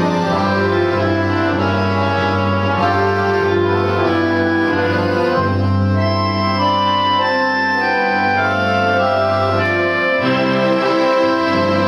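Accordion orchestra playing Christmas music live: many accordions holding sustained chords in an organ-like blend over long held bass notes.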